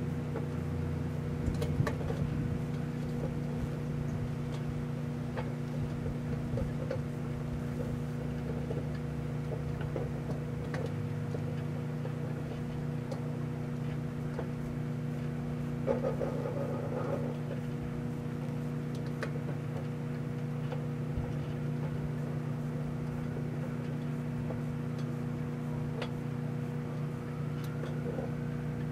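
Microwave oven running with a metal can of Spam inside: a steady electrical hum, with a few sharp clicks scattered through it.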